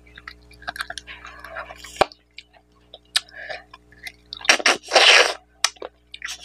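Close-miked eating of rice and mutton curry by hand: wet chewing, squelching and lip smacks, with a sharp click about two seconds in and a loud breathy rush of air about five seconds in.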